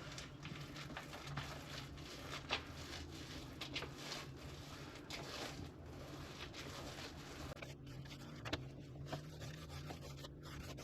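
Soft, irregular rubbing strokes of paint being applied to a caravan ceiling, denser for the first seven seconds or so and sparser near the end, over a faint low hum.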